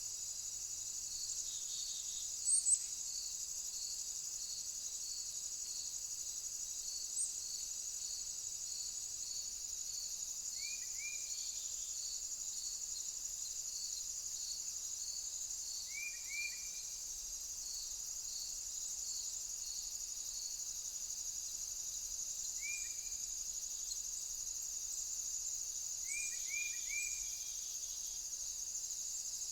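Insects chirping: a steady high trill with a regular chirp repeating about three times every two seconds. A few short, quick double bird chirps come in now and then.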